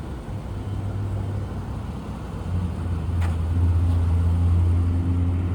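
A 3.6-litre Pentastar V6 idling steadily, a low even hum that grows louder about halfway through, with one faint click in the middle.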